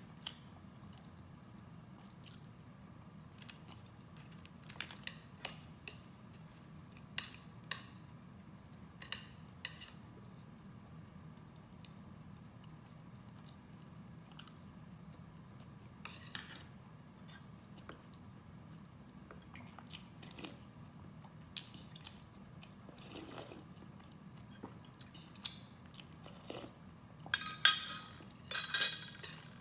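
Close-miked eating sounds: a person chewing and biting food, with soft, sharp mouth sounds every second or two. Near the end, a louder clatter of chopsticks and a spoon against a glass dish and a tray.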